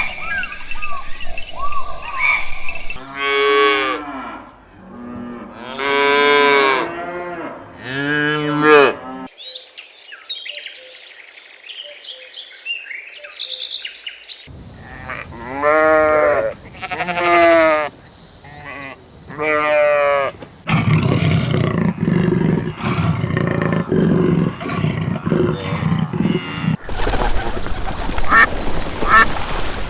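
Different animal calls cut one after another: several drawn-out pitched calls that rise and fall, a stretch of high bird chirping, a noisier stretch, then fast repeated short calls near the end.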